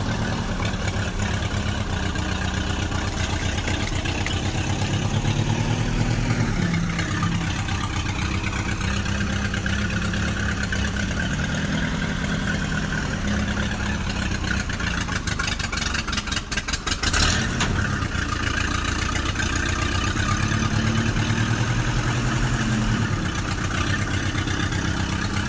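A small tractor engine runs steadily with a low, even beat. Its speed rises and falls a couple of times, and a quick run of rattling clicks comes about two-thirds of the way through.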